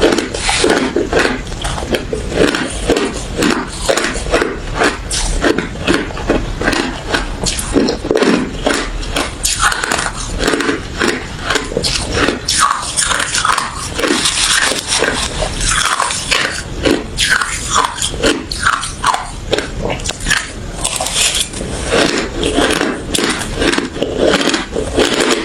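Close-up crunching of someone biting and chewing refrozen crushed ice and thin, frosty ice, in rapid, continuous crunches.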